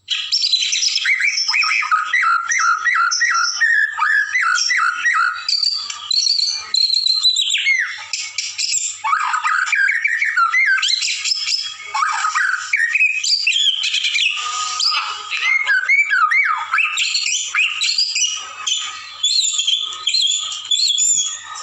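White-rumped shama (murai batu) singing without pause: a loud, varied song of whistles and rapid repeated notes, opening with a quick run of repeated strokes. It is a male in contest condition with a fast rolling song.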